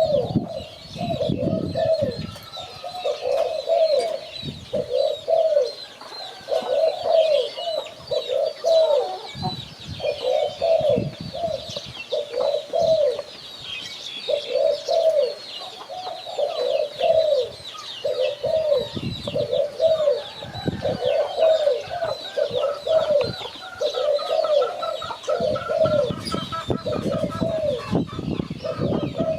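Spotted dove cooing, short coo phrases repeated over and over with hardly a pause. Dense high twittering of small birds sits behind it, with a few low rumbles now and then.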